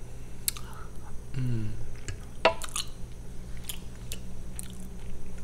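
A person chewing a mouthful of food close to the microphone, with wet mouth clicks and smacks. A brief hummed 'mm' comes about a second and a half in, and a sharper click, the loudest sound, about halfway through.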